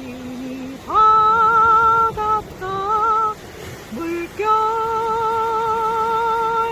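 A woman singing a slow song, holding long notes with a steady vibrato. A lower note opens, the voice steps up about a second in, moves through two shorter notes, and then holds one long high note to the end.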